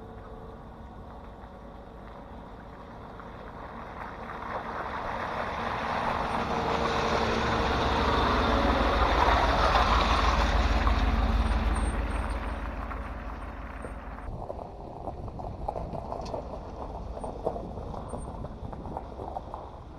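Chevrolet Silverado 1500 pickup truck driving up: its engine and tyre noise grow louder over several seconds, peak about halfway through, then fade. A little past two-thirds of the way the noise drops off abruptly, leaving a low rumble with scattered clicks and rustles.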